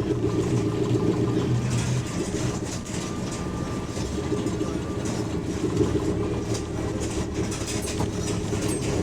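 Bus diesel engine running, heard from inside the saloon: a steady low drone whose pitch shifts about a second and a half in and again around four seconds, with light rattles and clicks from the bodywork.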